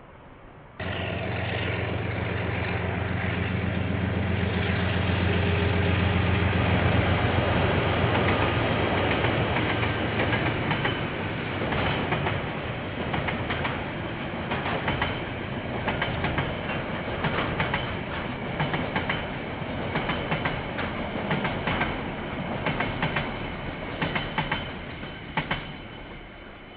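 KiwiRail train passing: the diesel locomotive's engine hum comes first, then the wagons clatter over the rail joints with a long run of irregular clicks and clacks that fades near the end.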